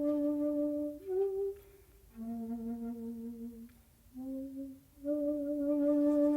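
Solo shakuhachi (end-blown bamboo flute) playing slow, separate notes. A long held tone breaks at about a second into a brief higher note. A lower note is held for about a second and a half, then a short note follows, and the long tone returns near the five-second mark.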